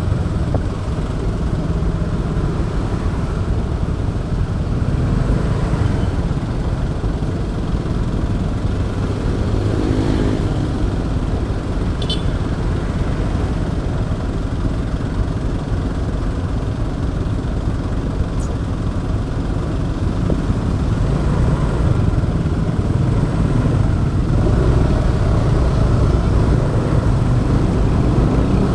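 Motorcycle riding along a road, heard from an action camera on the bike: the engine running steadily under a continuous rush of wind and road noise. Another engine's hum rises briefly around ten seconds in, and a short tick comes about two seconds later.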